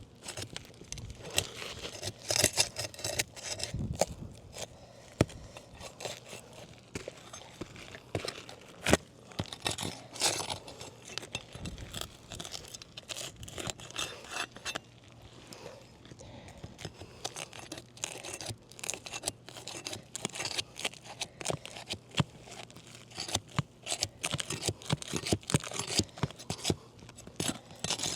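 Roof shingles being pried loose and lifted with a pry bar: irregular scraping and tearing with sharp clicks and snaps throughout.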